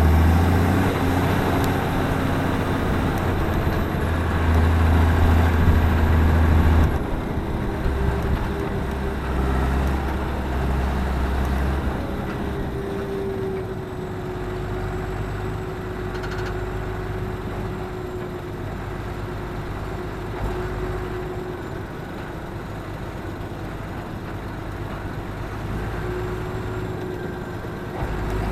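Claas Axion 820 tractor's six-cylinder diesel engine running with a heavy low drone that eases off about seven seconds in and again about twelve seconds in. After that a steady mid-pitched whine sits over the quieter engine note.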